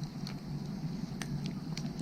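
Wood fire burning, crackling with a handful of small sharp pops over a steady low background.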